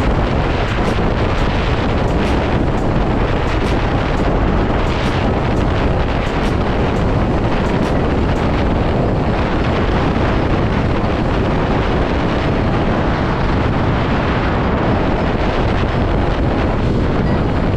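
Steady wind rushing over the microphone of a moving motorcycle, with engine and road noise blended underneath.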